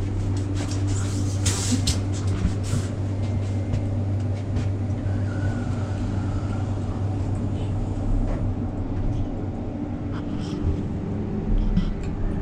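A steady low mechanical hum, with a few sharp clicks and knocks in the first few seconds.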